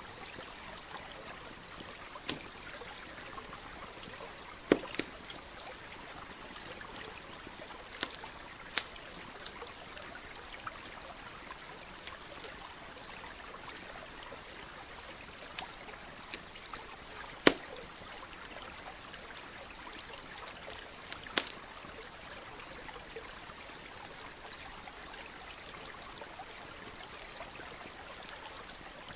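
Wood campfire crackling, with sharp pops at irregular intervals, over the steady sound of a stream running.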